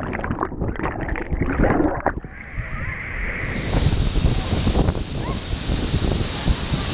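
Steady rushing noise of a waterfall's falling water, uneven for the first couple of seconds.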